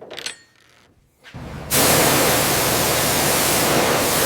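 A brief clink, then about a second and a half in a pressure washer's spray jet opens up into a loud, steady hiss as it blasts rust and grime off the old truck.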